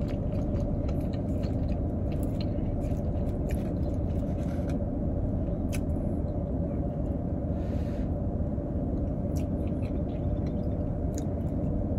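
Chewing and small mouth and utensil clicks of someone eating fried chicken and mashed potatoes, over a steady low hum inside a car's cabin.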